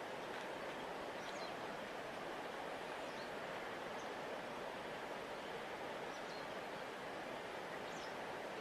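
A large river flowing with a steady, even rush of water. Faint, brief high bird chirps come now and then.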